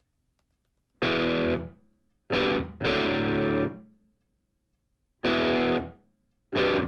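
Distorted electric guitar playing short chord stabs, each held under a second and then cut off, with silent gaps between them: five chords in all.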